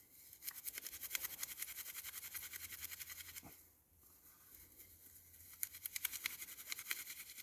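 Dry cedar bark fibres being rubbed and broken up between the hands into fine tinder: a fast, fine scratchy crackle, in two spells with a short lull a little past the middle.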